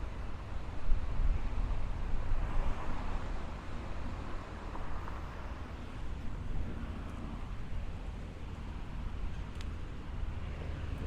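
Surf washing up on a beach, with wind rumbling on the microphone. The wash swells a couple of seconds in and then eases off.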